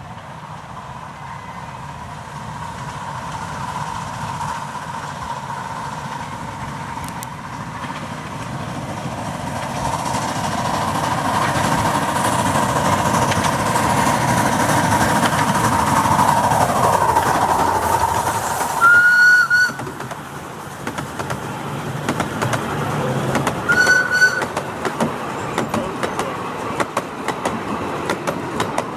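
Miniature steam train running toward the listener along its track: the rails ring with a steady tone and the running noise grows louder, then the wheels click over the rail joints as it passes. The locomotive's whistle gives two short blasts, about two-thirds of the way in and again some five seconds later.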